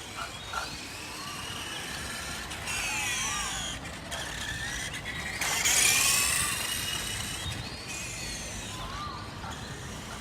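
Small 380-size electric motor of a 1:5 radio-controlled motorcycle whining as it runs, the pitch rising and falling as it speeds up and slows. It is loudest a little past halfway, with a rising whine.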